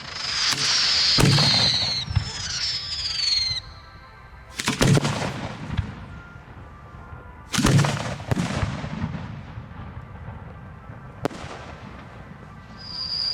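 Fireworks going off close to the launch site. A shrill whistling tone comes at the start and again near the end, with five sharp bangs about 1, 5, 8, 8.5 and 11 seconds in, each followed by a rumble and crackle.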